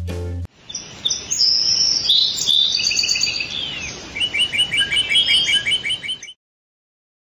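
Birds chirping in quick runs of short, repeated high notes, several at once, over a faint steady outdoor hiss; it cuts off suddenly about six seconds in.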